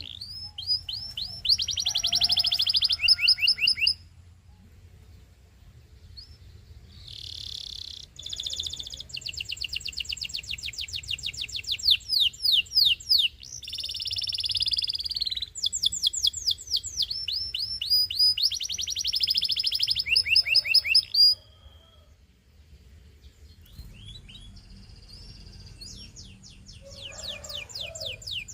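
Domestic canary singing: long phrases of fast trills made of rapid, repeated down-slurred notes, with brief pauses between phrases.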